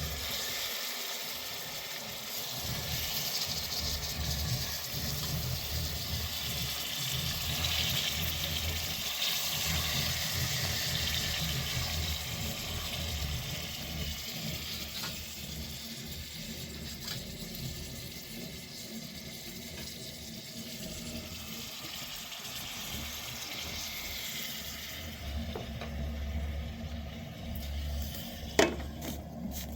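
Steady rushing of running water, with a single sharp click or knock near the end.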